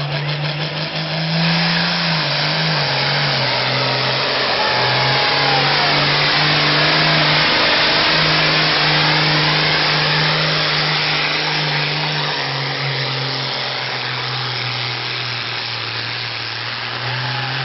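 Pulling tractor's engine running hard under load through a pull, its pitch holding steady with a few small steps. It grows louder toward the middle, then eases off.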